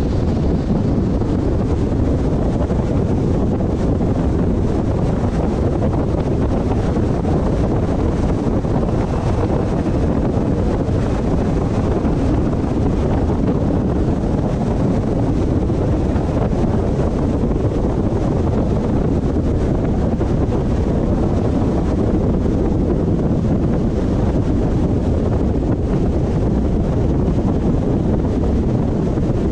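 Car driving: steady road and wind noise, a low rumble with no breaks.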